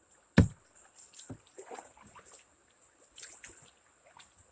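Kayak paddling: one sharp knock about half a second in, then light splashes and drips of paddle strokes in the water.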